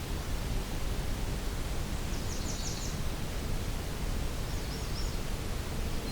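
Steady background hiss and low rumble of an evening outdoor recording, with a faint songbird phrase of about five quick high notes about two seconds in and a shorter, fainter high phrase later on.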